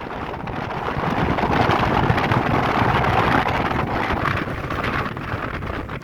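Road travel noise: the rush of a moving vehicle and passing traffic, with wind buffeting the microphone. The rushing swells a little in the middle and eases slightly near the end.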